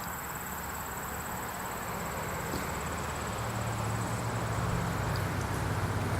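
Steady rush of a waterfall and stream, with a vehicle engine's low drone coming in and growing louder from about halfway through.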